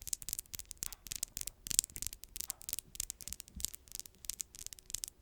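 Fingernails tapping and scratching, a rapid, irregular run of light, crisp clicks.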